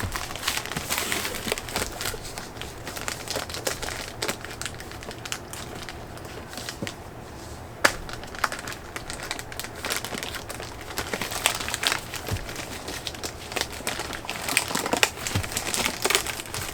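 Packing material crinkling and rustling as a shipping box is unpacked by hand, with irregular crackles throughout and a sharp knock about eight seconds in.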